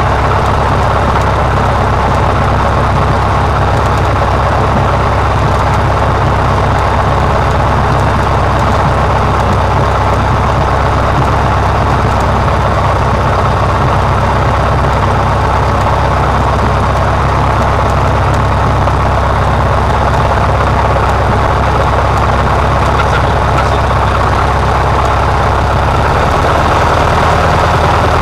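Cessna 150's four-cylinder Continental O-200 engine and propeller droning steadily, heard inside the cabin, with a slight change in the low drone near the end.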